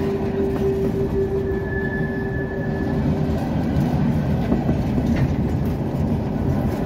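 Coal hopper cars rolling past close by: a loud, steady rumble of wheels on rail, with a held ringing tone that dies away about three seconds in.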